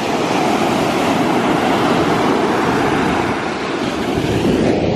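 Ocean surf washing in at the water's edge, a loud steady rush, with wind on the microphone.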